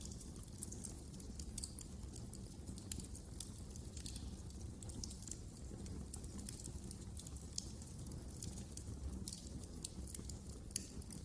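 Wood fire crackling: irregular sharp pops and snaps, several a second, over a low steady rumble of burning flames.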